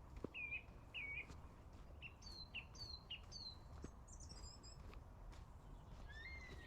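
Small birds calling: short chirps at first, then a run of quick down-slurred whistled notes and a higher twittering, over a faint low steady background rumble.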